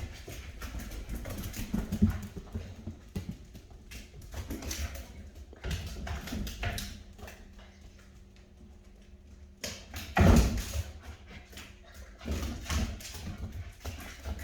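Rottweiler puppies moving and playing, with irregular knocks and scrabbling of paws on a hard floor and a loud bump about ten seconds in.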